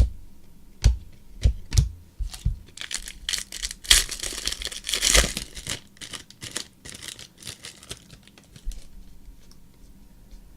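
A few sharp taps of cards being handled, then a Prizm basketball card pack's foil wrapper torn open and crinkled for about three seconds, followed by light clicks of cards being shuffled.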